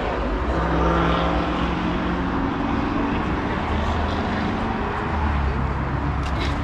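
A vehicle engine running, a steady low drone whose pitch shifts slightly up and down.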